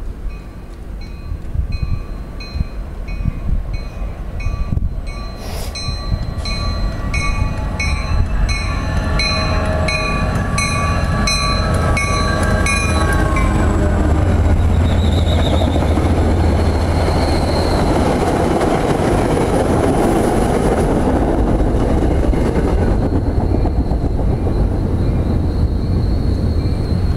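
Grade crossing bell ringing in a steady rhythm, then stopping about halfway through. Meanwhile an MBTA commuter train's diesel locomotive and cars approach and pass with a loud, steady low rumble, with brief high wheel squeals.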